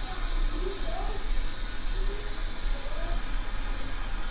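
Steady hiss from a lit stove under a pan of oil that is heating up.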